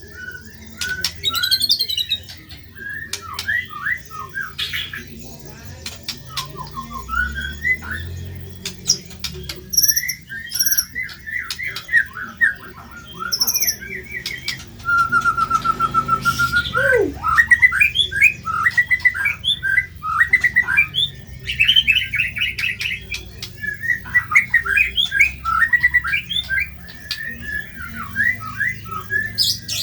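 White-rumped shama (murai batu) singing a continuous varied song of rough, harsh phrases: rapid chirps and trills, with a held whistle about halfway through and a steep falling note just after.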